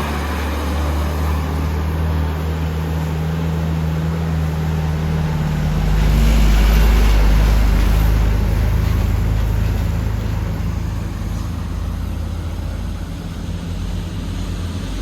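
Mitsubishi Canter truck's diesel engine running steadily, growing louder about six seconds in and easing off again after about ten seconds.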